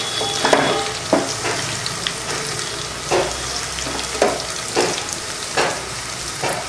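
Whole shallots sizzling in hot oil in an aluminium pot, with a steady frying hiss. A wooden spatula scrapes and stirs them about seven times at irregular intervals.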